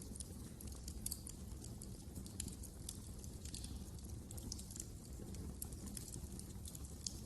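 Wood fire crackling in a fireplace: irregular sharp pops and crackles over a low, steady rumble of the flames.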